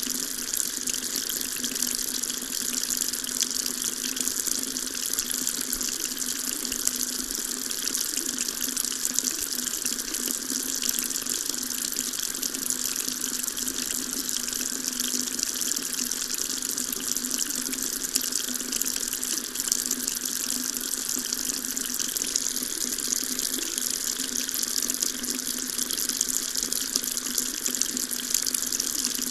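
Water tap running steadily, a continuous stream splashing into a sink.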